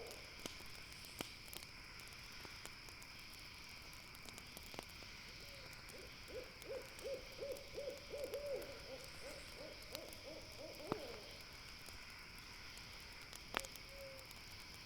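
An owl hoots in a quick, even series of short notes for about five seconds, starting around the middle. A couple of sharp campfire pops follow, over a steady high chirring of night insects.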